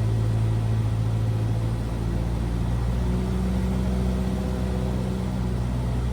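Cessna 172R's four-cylinder Lycoming IO-360 engine and propeller droning steadily as heard in the cockpit in flight, the pitch of the drone shifting slightly about two to three seconds in.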